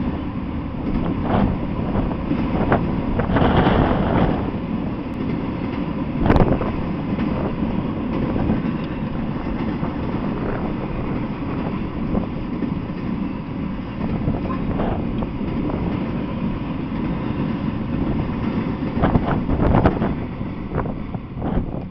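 Freight train of autorack cars rolling past: a steady low rumble of steel wheels on rail with scattered clanks and knocks, a burst of sharper clanks about 19 to 20 seconds in as the last cars go by. Wind buffets the microphone.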